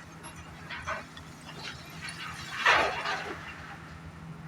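A dog barking several times in short calls, the loudest about two and a half seconds in, over a steady low engine hum.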